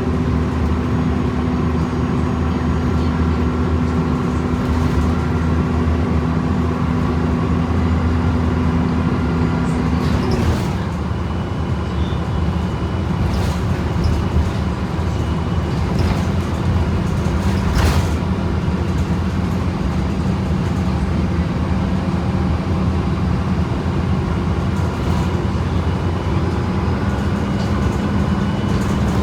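Gillig bus with a Voith automatic transmission under way, heard from inside the cabin: a steady engine and driveline hum with a whining tone that drops in pitch about ten seconds in, plus a few clicks and rattles.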